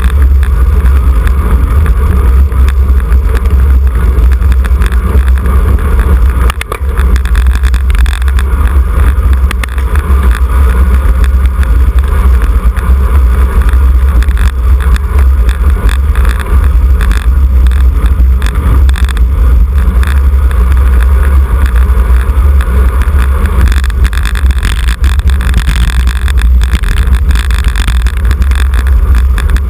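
Wind buffeting the microphone of a camera on a road bicycle ridden at race speed: a loud, steady low rumble, with a faint hiss of tyres and air above it.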